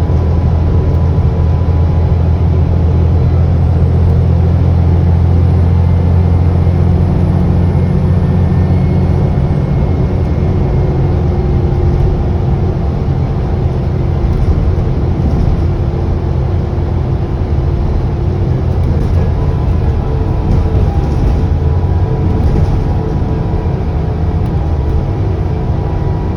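ADL Enviro400 double-decker bus under way, its diesel engine drone heaviest for the first ten seconds or so and then easing. A faint high turbo whine rises, holds and fades in the first third.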